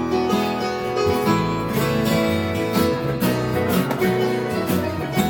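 Acoustic guitar strumming a church chorus accompaniment, starting right after a spoken count-in.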